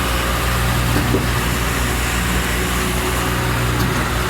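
Diesel engine running steadily at a constant speed, a low even hum.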